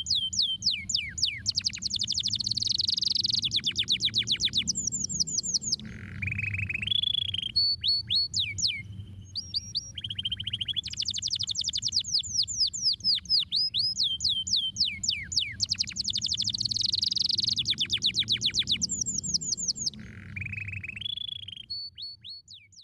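Domestic canary singing: rapid trills of falling sweeps, long rolling trills and buzzy notes. The same song sequence repeats about ten seconds later, over a low background hum, and fades out at the end.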